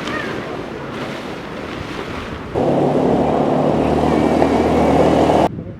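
Steady vehicle noise: a rushing rumble with a low, even engine hum comes in about two and a half seconds in, louder than the softer rush before it, and cuts off suddenly near the end.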